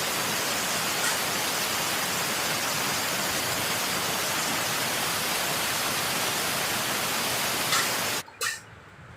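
Heavy rain pouring down as a steady, dense hiss that cuts off abruptly about eight seconds in, leaving near quiet with one short sound.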